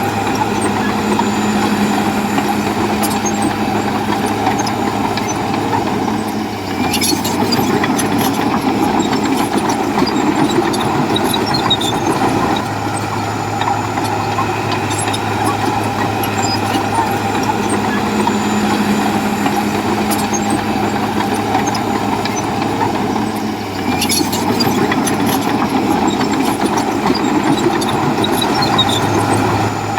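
Komatsu bulldozer's diesel engine running steadily under load, its note shifting about six seconds in and again about three-quarters of the way through, each time with a brief burst of metallic clatter.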